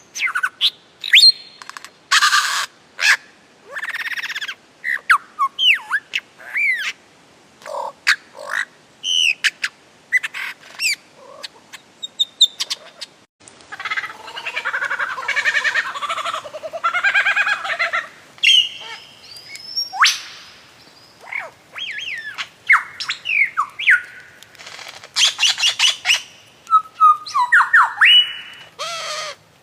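Birds calling: a string of short whistles, chirps and harsh squawks, with a longer run of chattering in the middle.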